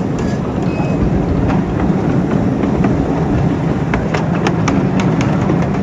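A 12-inch gauge live steam train running on its track: a steady low rumble with scattered sharp clicks and clanks.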